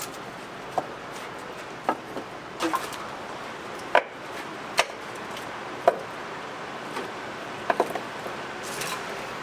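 Scattered wooden knocks and clacks, about ten irregular hits, over steady background noise.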